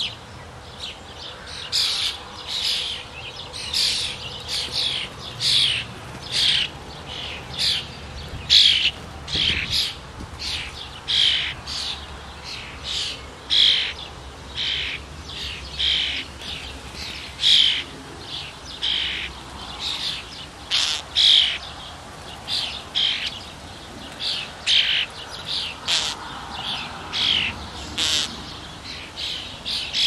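A bird calling over and over: short, high, harsh calls repeated steadily, a little more than one a second.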